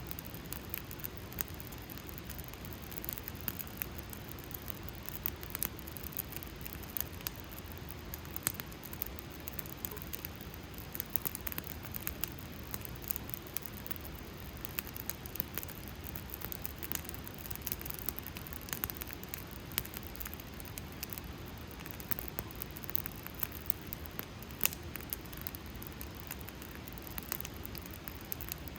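Wood fire crackling: a steady low rush of burning with frequent small sharp pops and snaps scattered throughout.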